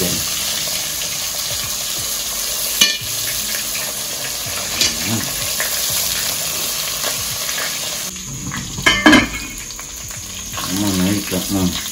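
Flour-coated pigeon pieces sizzling in hot oil in a heavy black pot, a steady frying hiss. A utensil knocks against the pot about three seconds in; about eight seconds in the sizzle turns quieter, and a louder clatter follows about a second later.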